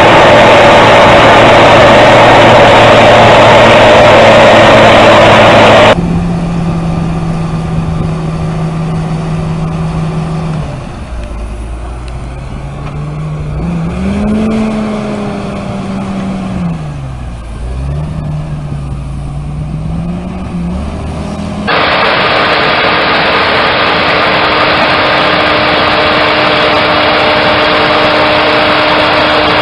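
Heavy equipment engines running, with abrupt cuts between three different machines. The first is loud and steady. The second revs up and down, its pitch rising and falling. The third runs steadily.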